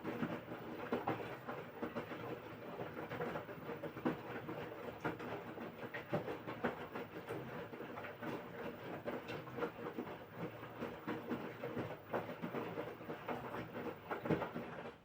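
LG washing machine in its wash cycle: the drum turning and tumbling the wet laundry, a rush of sloshing with irregular knocks and clicks, which cuts off sharply at the very end as the drum stops.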